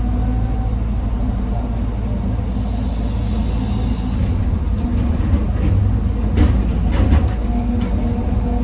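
Heavy diesel machinery of an excavator loading rock into a dump truck, running with a steady low drone. Higher hiss in the middle, then a short clatter of sharp knocks about six to seven seconds in, typical of rock dropping into the steel dump body.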